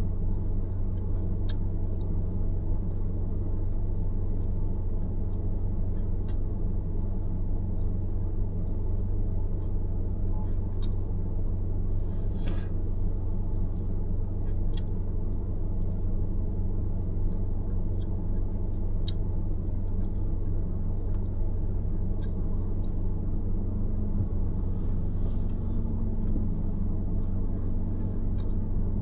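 Steady low rumble of a car driving, tyre and engine noise, with a short hiss about twelve seconds in and a faint rising whine over the last few seconds.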